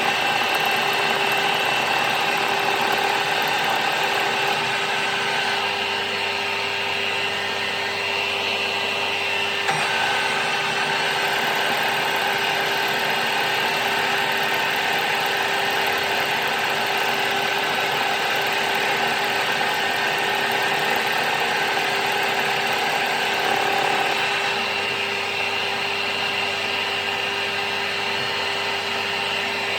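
A powered machine tool running steadily, with a constant whine over a dense mechanical noise, as metal parts are machined.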